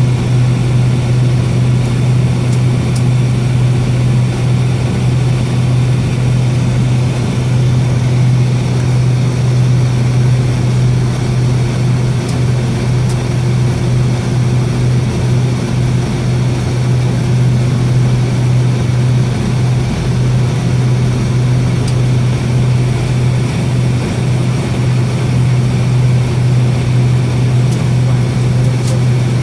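Boeing 757's Pratt & Whitney PW2037 turbofan engines at idle on the ground, heard from inside the passenger cabin as a steady low drone over constant airflow noise.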